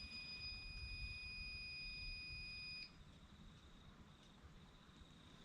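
A single steady electronic beep, high-pitched, lasting about three seconds and then cutting off, typical of a mini excavator's key-on warning beeper sounding before the engine is cranked.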